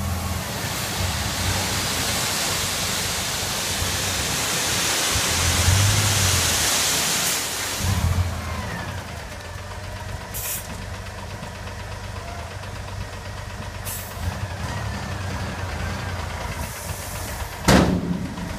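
Dump truck's diesel engine running low and steady under a loud hiss that stops about seven and a half seconds in. A sharp bang comes just before the end.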